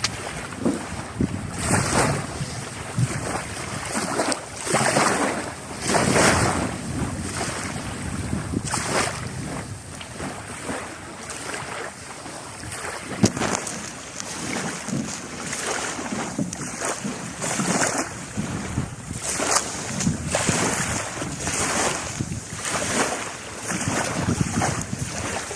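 Sea waves washing and splashing in irregular surges every second or two, with wind buffeting the microphone.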